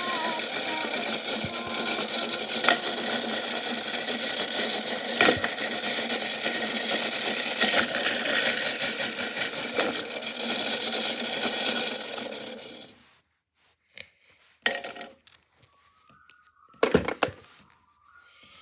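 Washing machine running loudly with a big rock inside, sharp knocks every couple of seconds as the rock strikes the drum. The running cuts off about 13 seconds in, and a few separate knocks follow.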